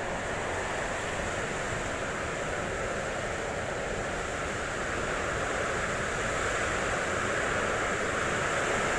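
Heavy rain and strong wind of a storm, an unbroken rushing noise.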